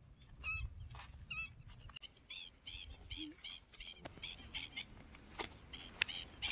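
A bird calling: a couple of separate high chirps, then from about two seconds in a quick run of short, sharp, high notes, about three or four a second, over a low rumble.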